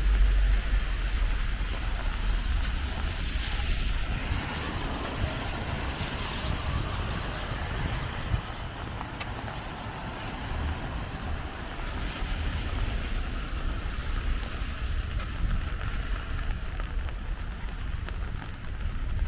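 Rain on a city street with the hiss of traffic on wet pavement, and a low vehicle rumble strongest in the first few seconds.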